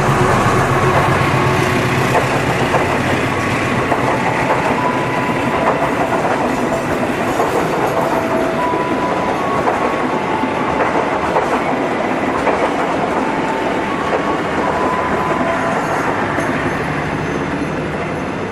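Cirebon Ekspres passenger train rolling slowly past, its coaches clacking over the rail joints, with many brief high squeals from the wheels. A low engine drone fades in the first couple of seconds, and the noise tails off near the end.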